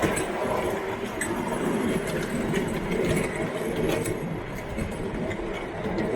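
Garden-railway train running on its track: a steady rolling rumble with a few light clicks.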